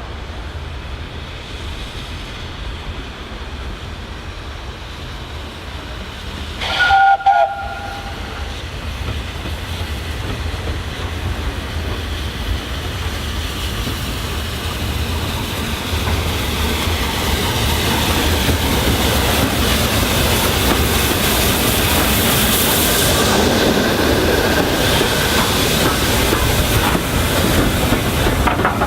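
Steam locomotive 60163 Tornado, a Peppercorn A1 Pacific, sounds one short whistle about seven seconds in. It then approaches, its running noise swelling steadily and loudest over the last dozen seconds as the train runs past.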